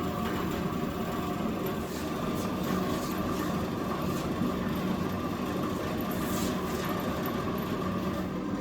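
Steady machine hum with several constant tones running under it, and a few faint brief rustles.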